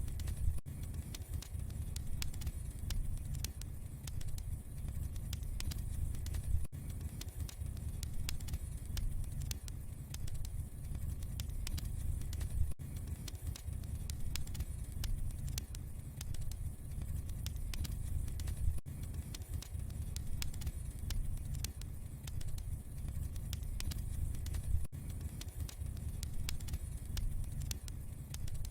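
Wood fire crackling in a fireplace: many small, sharp pops and ticks over a low, steady rumble of the burning fire.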